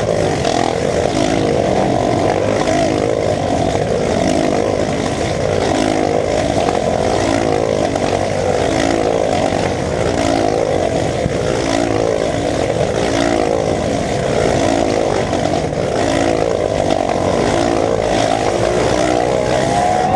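Motorcycle engine running steadily under way, its pitch wavering slightly, over steady wind and road noise.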